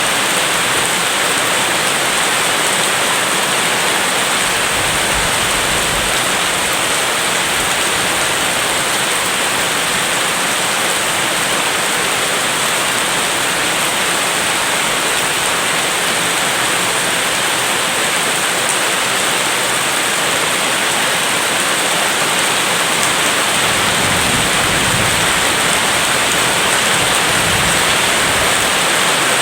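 Steady heavy rain, an even hiss, with low rumbles of distant thunder swelling about five seconds in and again near the end.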